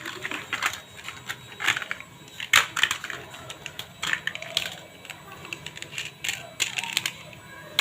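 Toy police cars clicking and clattering as they are handled, a string of irregular sharp knocks with the loudest about two and a half seconds in.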